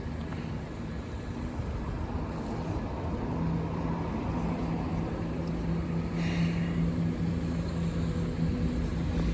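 Diesel passenger train approaching the level crossing, its engine a steady low drone growing gradually louder.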